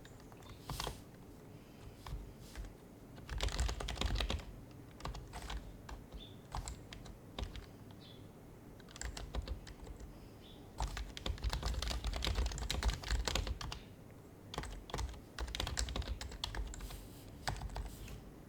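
Typing on an HHKB Professional HYBRID Type-S keyboard with its quiet Topre switches: bursts of rapid keystrokes lasting a second or two, separated by pauses with only a few single key presses.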